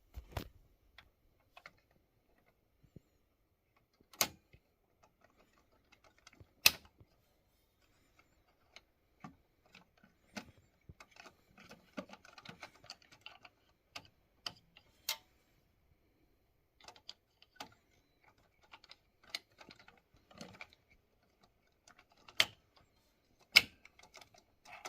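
Scattered clicks, snaps and small rattles of the plastic parts of a Xerox laser printer's bypass tray being unclipped and handled during roller replacement, with a few sharp louder snaps spread through it.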